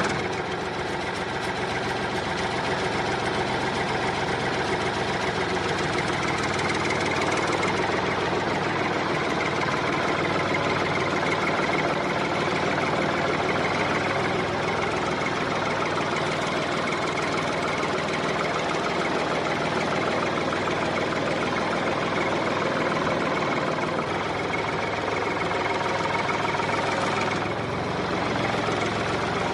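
A mini tractor's small motor running steadily, with a slight change in its sound near the end.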